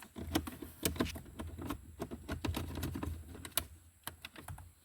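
Irregular light clicks and taps from hand tools and plastic interior trim being handled while a car's center console is taken apart.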